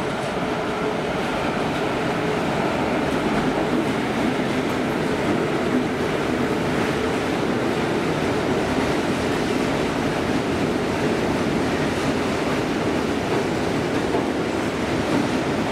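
A freight train of tank wagons rolling past, its wheels on the rails making a steady rumbling roll that does not change.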